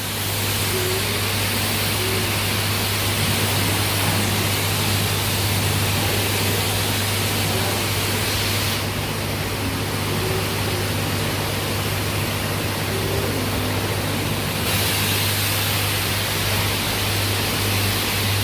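Car wash high-pressure water spray hissing steadily over a constant low pump hum, its tone shifting twice as the spray moves.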